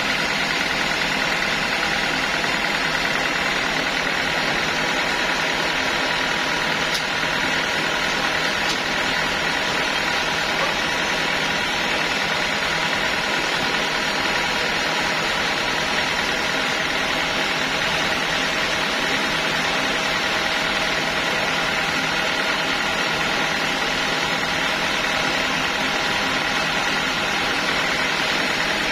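Sawmill saw machinery running steadily, a constant mechanical hum with a high steady whine and no change in pace.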